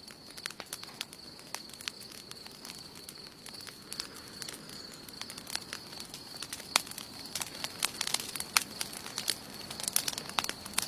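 Wood campfire crackling, with irregular sharp pops and snaps that come thicker in the last few seconds, over a soft steady hiss and a constant faint high-pitched tone.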